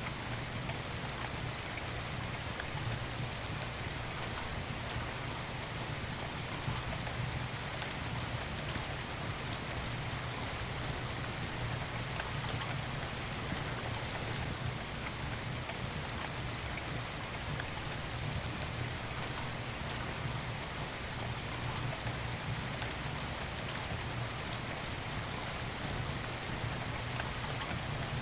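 Steady rain falling, an even hiss without pauses, with a few faint sharp crackles from a wood fire now and then.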